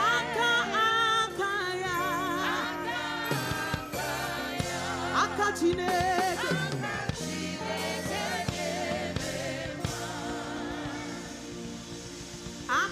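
Gospel worship music: voices singing with vibrato, with choir, over sustained keyboard chords and bass.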